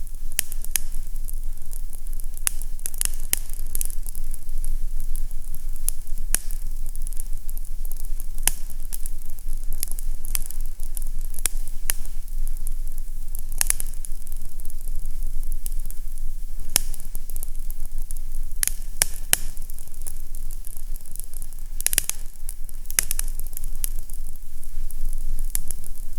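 Fire crackling in a fireplace, with irregular sharp pops and snaps over a steady low hum.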